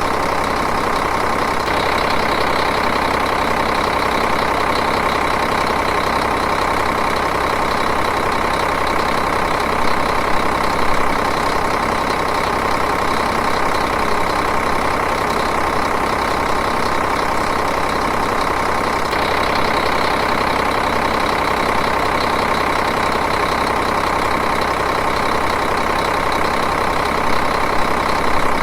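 Diesel engine idling steadily, with a fine, even rhythmic clatter.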